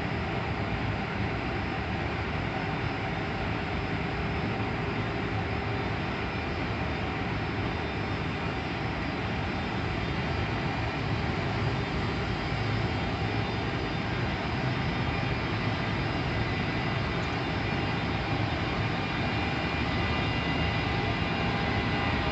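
Electric commuter train pulling into the station platform: a steady rolling rumble with faint motor hum, growing slowly louder toward the end.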